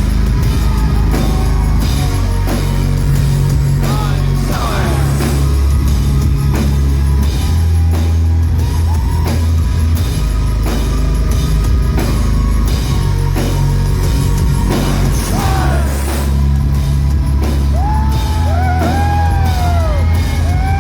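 Loud live metal music heard from the front of the crowd, with a heavy low bass line and pounding drums. Shouts and whoops rise from the audience near the end.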